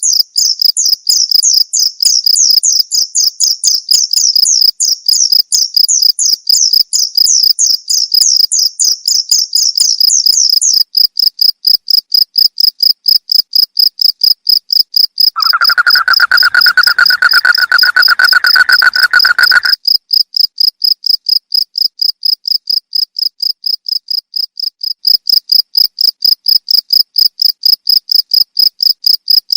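Crickets chirping in a steady, rapid pulsing trill. For about the first ten seconds a second, higher chirping call runs alongside. A lower, steady call joins for about four seconds just past the middle.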